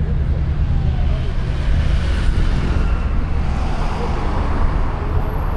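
Road traffic running steadily, a dense low rumble of passing vehicles with faint voices underneath.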